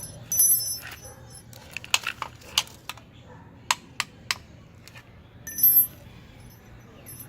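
A young bird stuck on a glue trap calling out twice in high, shrill squawks, with several sharp metallic clicks in between, typical of scissors snipping at the glue.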